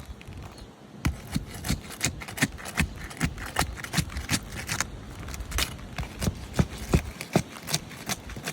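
Footsteps and scuffs on an asphalt shingle roof: a run of sharp, irregular knocks, about three a second, starting about a second in.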